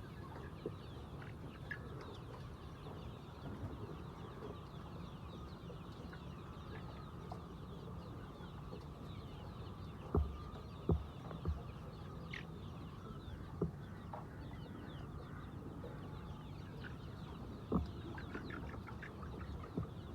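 A large flock of laying hens clucking and calling continuously over a steady low hum, with a few sharp knocks about halfway through and again near the end.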